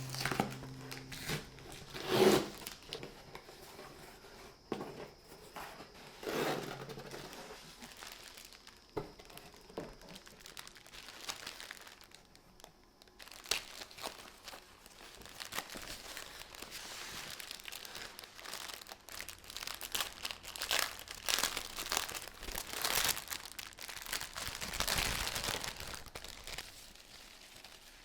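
Intermittent rustling and crinkling of paper or plastic being handled, with a few light knocks, the sharpest about two seconds in.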